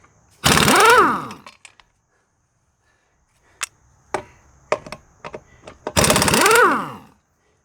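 Impact wrench run in two bursts of about a second each, hammering as it spins the wheel nuts loose, its pitch rising then falling in each burst. Light clicks and clinks of the loosened nuts in between.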